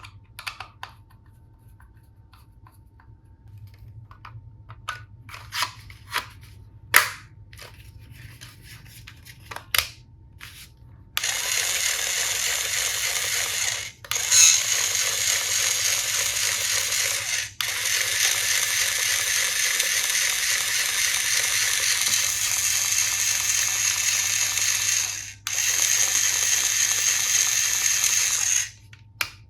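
Scattered clicks and taps of plastic toy tool pieces being handled, then a toy electric screwdriver's small motor whirring in four long runs with brief stops between them, starting about eleven seconds in and stopping near the end.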